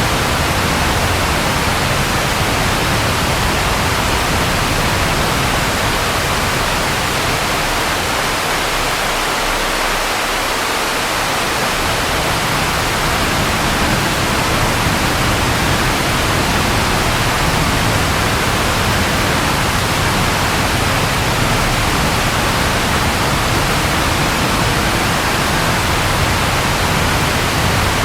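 Steady rain falling: a dense, even hiss with a low undertone that thins out briefly about a third of the way in.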